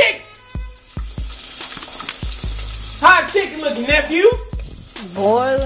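Chicken frying in hot oil in a pot, a steady crackling sizzle. A person's voice cuts in over it about three seconds in and again near the end.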